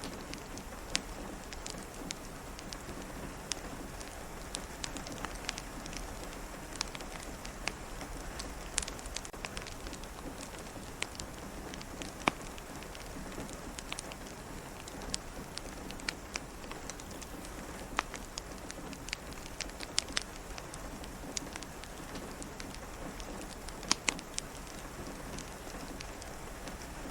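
Steady soft rain with a crackling wood fire: an even hiss of rain under scattered, irregular sharp pops and crackles.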